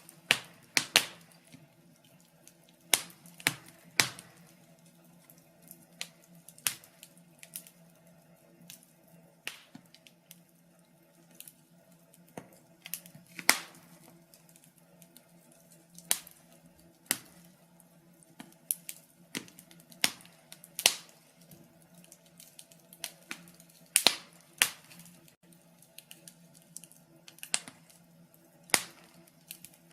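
Wood fire crackling in a fireplace: irregular sharp pops and snaps, about one a second and sometimes several in quick succession, over a faint steady low hum.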